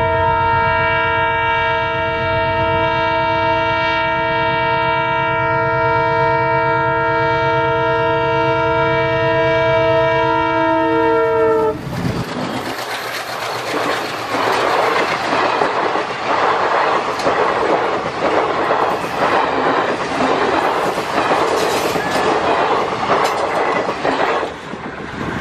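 ALCo diesel locomotive sounding its multi-tone horn in one long continuous blast for about twelve seconds, with the engine rumbling underneath. Then the sound changes abruptly to passenger coaches rolling past close by, their wheels clacking rhythmically over the rail joints, until the train has gone near the end.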